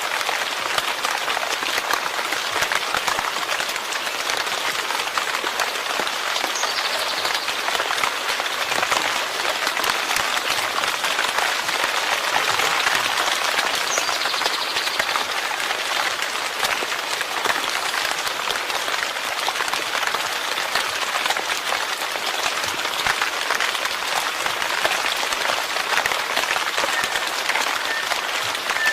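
Steady rain falling, a dense and even patter of many drops.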